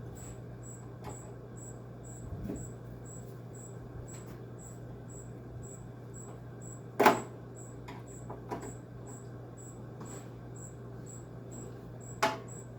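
Two sharp knocks, about seven seconds in and near the end, from tools and parts being handled while unscrewing a window air conditioner's casing. Underneath is a steady low hum and a faint high chirp repeating about three times a second.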